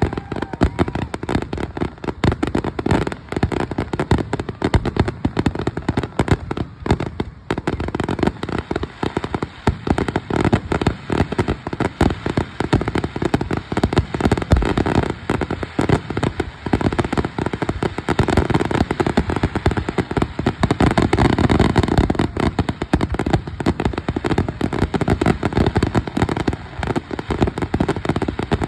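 Fireworks finale: a dense, continuous barrage of rapid bangs and crackling with no gaps, swelling a little louder about two-thirds of the way through.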